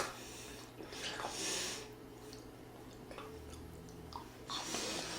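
A person chewing food while eating, with a sharp click at the start and two loud breaths, one about a second in and one near the end.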